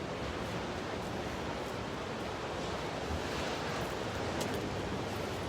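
Ocean surf: waves washing in at high tide as a steady rush, swelling slightly a few seconds in.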